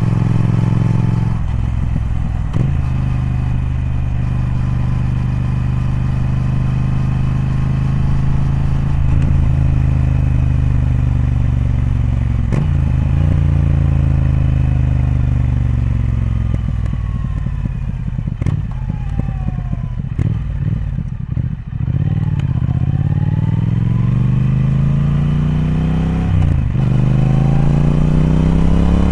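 Triumph Speed Twin's parallel-twin engine and exhaust on the move, the note climbing and dropping with brief breaks at each gear change. About two-thirds through, the engine note falls and quietens as the bike slows, then it climbs steadily again, pulling hard near the end.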